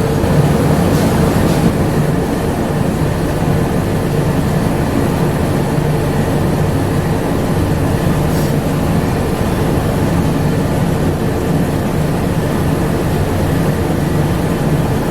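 Bombardier APM100 rubber-tyred people-mover car running along its guideway, heard from on board: a steady, loud rumble with a constant low hum.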